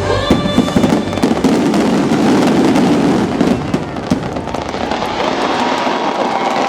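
Fireworks display bursting and crackling, with many sharp bangs in the first half that thin into a dense crackle, over the show's music.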